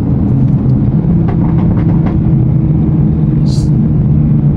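Toyota MKV Supra heard from inside the cabin while cruising at a steady speed: a steady low engine drone mixed with road noise, with a short hiss about three and a half seconds in.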